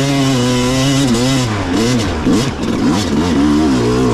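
Enduro dirt bike engine revving hard. It holds high revs for about a second and a half, then the pitch drops and climbs again several times as the throttle is worked.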